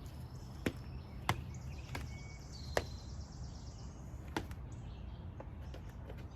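About five sharp clicks or taps spaced a second or so apart over a steady low rumble, with a few faint high-pitched tones.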